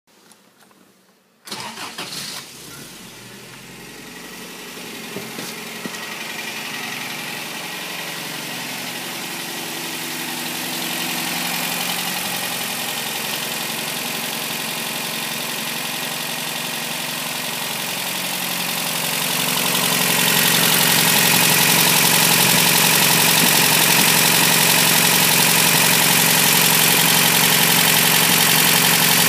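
Toyota 22RE 2.4-litre four-cylinder engine in a 1989 pickup starting up about a second and a half in, then idling steadily and running noticeably louder from about twenty seconds in. The engine's rod bearings are worn, the cause of its rod knock.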